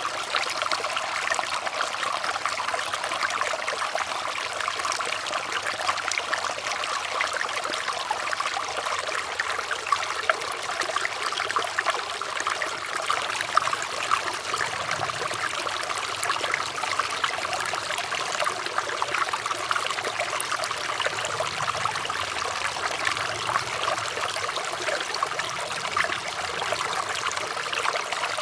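Running water trickling and splashing steadily, a constant dense patter of small splashes.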